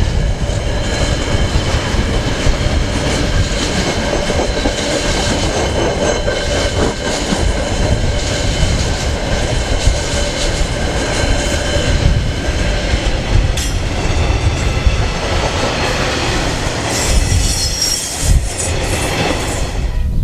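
KiwiRail freight train wagons rolling past, a loud steady rumble of wheels on rail with clickety-clack from the rail joints and steady high-pitched wheel squeal.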